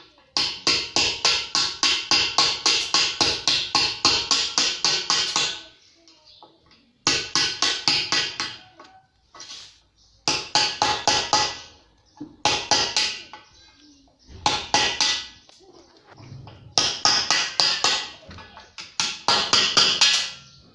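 Rapid back-and-forth scraping strokes, about five a second, in runs of a few seconds broken by short pauses.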